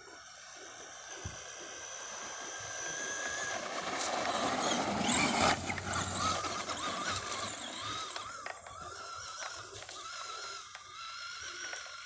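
Electric Traxxas RC truck's motor whining, its pitch rising and falling with the throttle, over the hiss of its tyres on wet ground; loudest about five seconds in.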